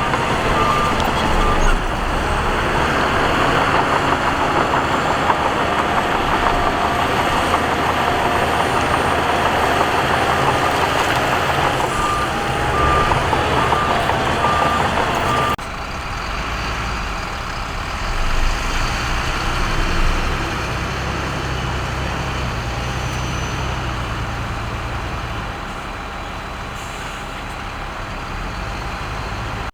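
Heavy earthmoving machinery running under load, with a reversing alarm beeping in short pulses at the start and again about twelve seconds in. The machine noise changes abruptly about halfway through.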